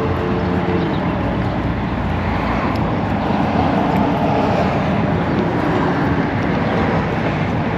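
Steady drone of a vehicle under way: low engine hum with road noise, no breaks.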